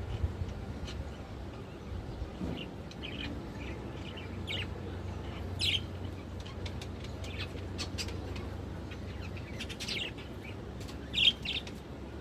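Budgerigars chirping: many short, scattered high calls, with a few louder ones about halfway through and near the end.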